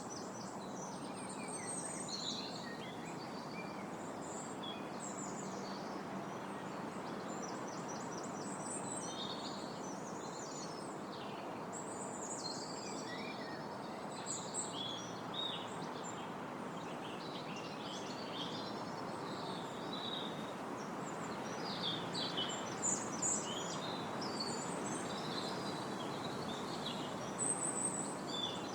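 Steady wind rushing through trees, with several small birds singing and chirping over it, in quick trills and short calls.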